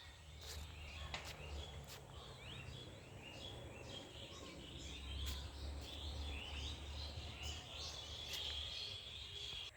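Small birds chirping and twittering in many short, quick calls, over a steady low rumble. The sound cuts off suddenly at the end.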